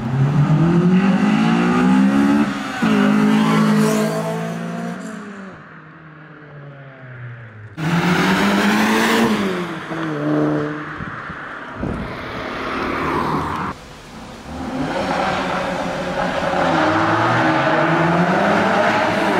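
Several cars accelerating hard away one after another, their engines revving up with rising pitch and dropping at gear changes. There are three loud surges, the second starting suddenly about eight seconds in.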